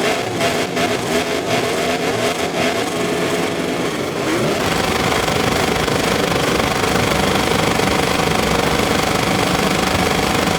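MotoGP race bike engines on the start grid, held at wavering high revs. About four seconds in, the revs climb as the start is launched, and the engine then runs steadily at high revs under full acceleration.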